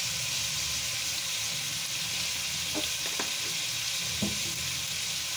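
Chicken pieces with coriander and curry leaves sizzling steadily in hot oil in a wok, with a few faint ticks about three and four seconds in.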